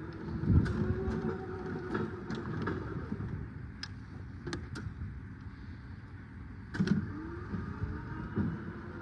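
Still EFG 12 electric forklift's electric motor whining, the pitch gliding up and down as it runs, with scattered mechanical clicks and a couple of heavier knocks, about half a second in and near the seventh second.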